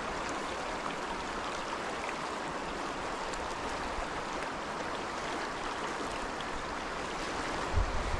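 Steady rushing of flowing river water, even and unbroken. A brief low thump comes near the end.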